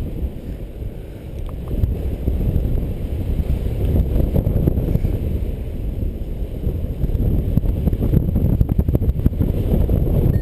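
Strong wind buffeting the microphone: a loud, low rumble that rises and falls in gusts.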